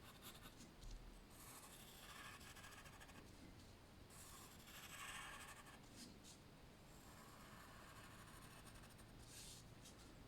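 Faint strokes of a drawing tool on paper, in several separate passes of about a second each, as the lines of a sketch are gone over.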